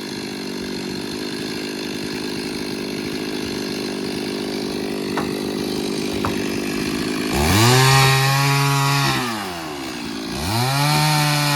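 Two-stroke chainsaw running at a steady low speed, then revved up to high speed twice. Each burst rises, holds for a second or two and falls back.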